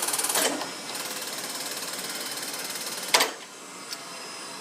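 Reed 6x18 surface grinder running with a steady, fast mechanical whir that drops in level about half a second in, and a sharp click about three seconds in.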